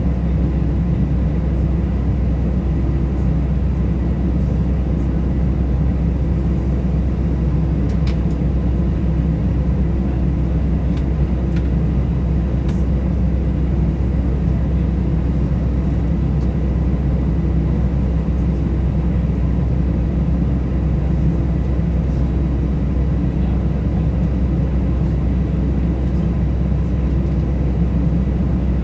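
Steady low rumble of cabin noise inside an Airbus A320, from its jet engines and the airflow, with a faint steady whine above it.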